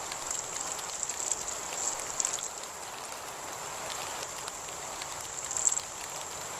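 Rain falling steadily, with a constant thin high-pitched tone above it and a few louder patters about two seconds in and again near the end.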